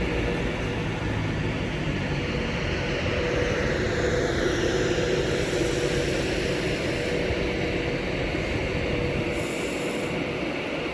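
Class 390 Pendolino electric train standing at the platform, its onboard equipment and cooling fans humming steadily with a constant two-note drone.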